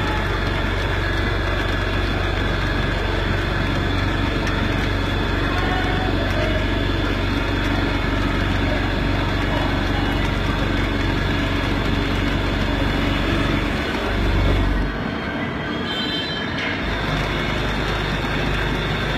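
Haas ST-20SSY CNC lathe running a turning and milling cycle: a steady machine drone with a thin high whine. About 14 seconds in it swells briefly, the drone drops away for about two seconds, then it picks up again.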